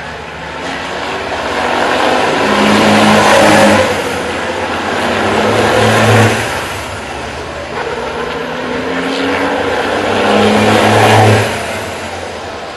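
Racing trucks passing at speed, three times. Each engine note rises to a peak and falls away sharply as it goes by, about four, six and eleven seconds in.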